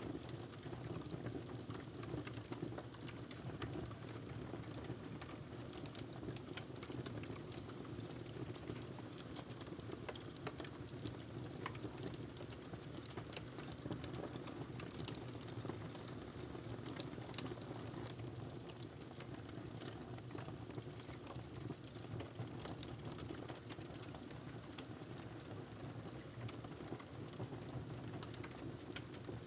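Wood fire crackling in a fireplace, irregular small pops and snaps over a steady low rumble.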